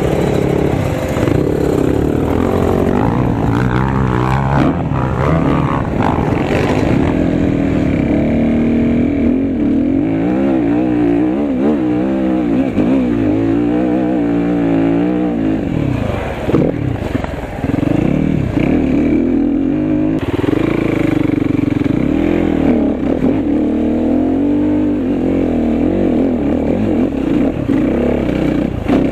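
Enduro motorcycle engine revving up and down constantly, its pitch rising and falling over and over as the throttle is worked.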